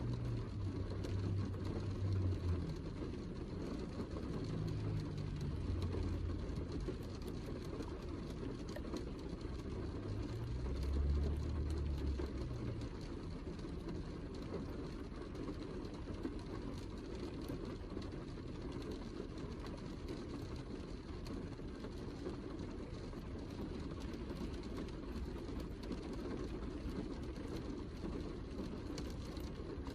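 Steady heavy rain, a dense low rushing that carries on unbroken, with a few deep low tones in about the first dozen seconds.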